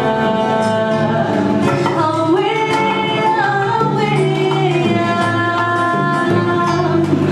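Music: a live song with a woman's singing and instrumental accompaniment, the voice holding and sliding between long notes without words.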